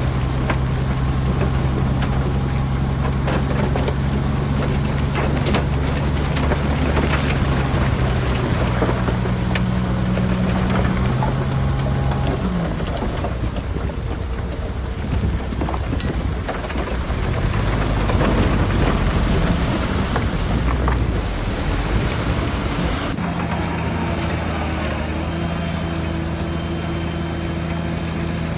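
Heavy diesel engine of earthmoving machinery working under load, its pitch dropping about twelve seconds in. After a cut about twenty-three seconds in, a steadier engine sound runs at a different pitch.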